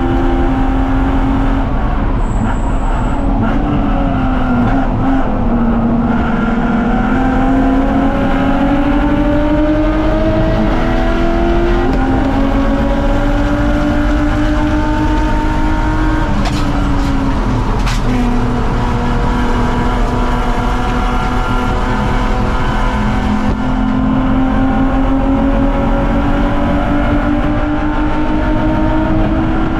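BMW 330ci race car's inline-six engine under hard driving: its pitch drops for a few seconds near the start, climbs slowly with a brief dip midway, falls again for a couple of seconds, then climbs steadily to the end. Two sharp knocks come just before the second drop ends.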